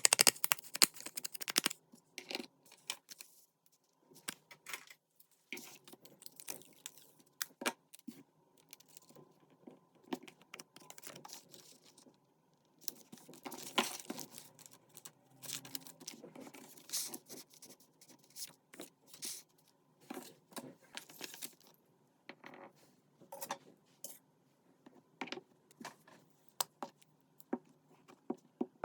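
Paper and cardstock being handled and worked by hand at a desk: scattered rustles, crinkles, taps and small clicks, with a quick run of rapid crackling at the very start.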